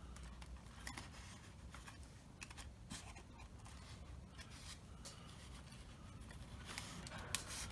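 Faint handling noise: scattered small clicks and light rustling as a carbon-fibre rod is pressed into a foam model-plane wing, a little busier near the end.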